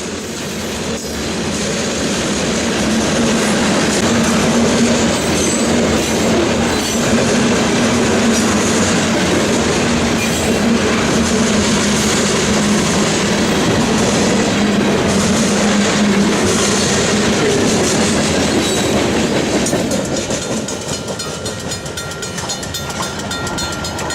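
Freight train cars rolling past on the rails: steady wheel and rail noise with clickety-clack, easing off about twenty seconds in.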